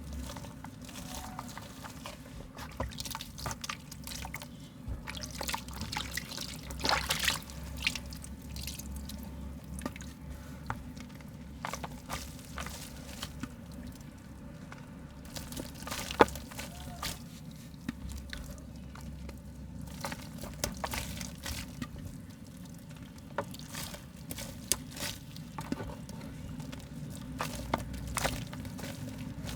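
Soft mud being crumbled: a steady run of small wet crackles and clicks, with one sharper click about sixteen seconds in.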